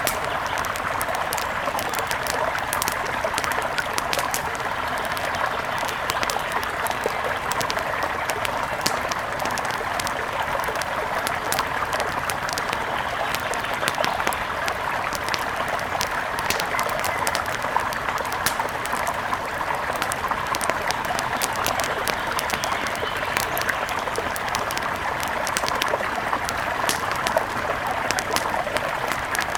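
A wood fire crackling with frequent small sharp pops over a steady rush of flowing river water.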